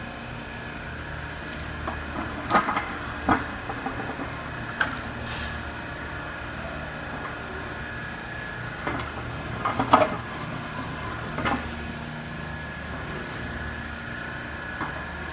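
Electric man-up turret truck forklift running: a steady electric motor whine over a low hum, with several sharp clunks and knocks, the loudest about ten seconds in.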